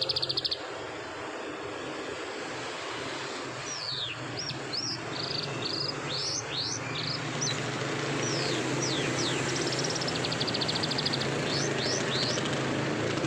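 Canary singing: a rapid trill in the first half second, then, after a pause, a run of quick sweeping notes and fast buzzing rolls from about three and a half seconds on. A steady background noise runs underneath.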